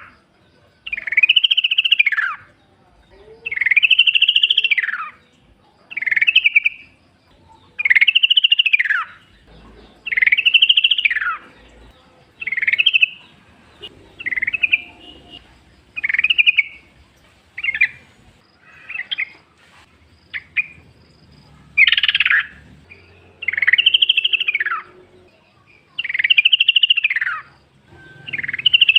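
Wild yellow-vented bulbul singing: a loud call repeated about every two seconds, each one rising then falling in pitch, with a few shorter, choppier calls in the middle.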